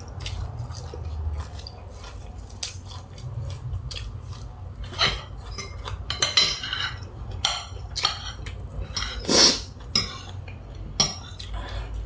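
Cutlery clinking and scraping against a plate during a meal, a string of separate sharp clinks over a low steady hum.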